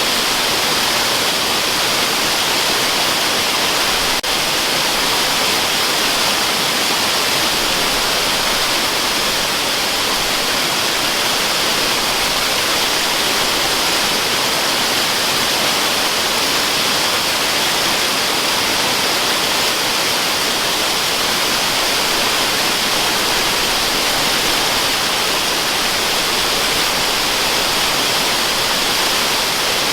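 Waterfall: a steady, unbroken rush of falling water that sounds like hiss and sits mostly in the high range. There is a faint click about four seconds in.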